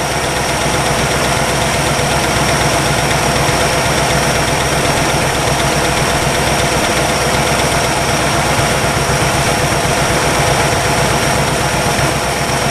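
1962 Chevrolet engine idling steadily while warming up after sitting unused for 35 years, with a fast ticking in its running that the owner suspects is valve clearance or valve-lift noise.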